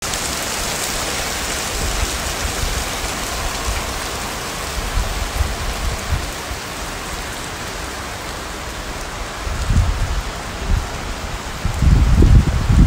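Heavy rain falling in a steady hiss, with irregular low rumbling that grows near the end and is loudest in the last second.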